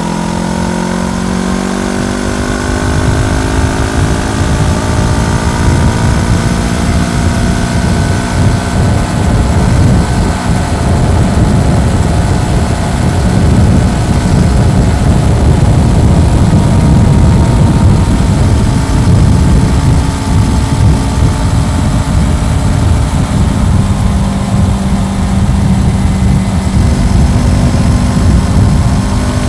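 Honda CBR400R's parallel-twin engine on the move, its note rising over the first few seconds, then cruising under heavy wind buffeting on the microphone, with the engine note standing out steadily again near the end.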